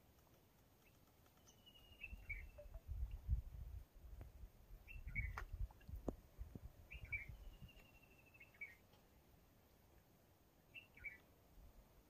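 A bird calling repeatedly: a thin, level whistle followed by short falling chirps, about four times. Bursts of low rumble between about two and eight seconds in are louder than the calls.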